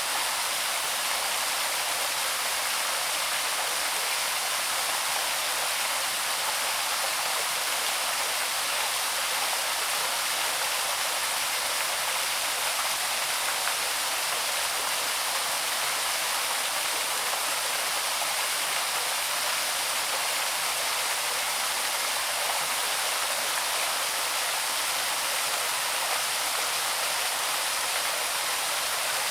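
Small waterfall cascading over rocks into a stream, a steady, even rush of water.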